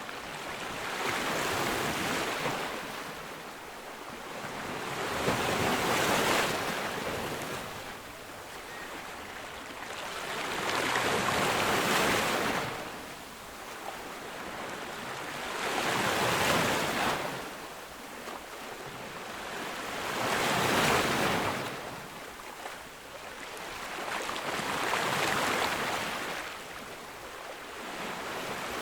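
Ocean waves breaking on a beach, each surge of surf rising and falling away about every four to five seconds, six in all.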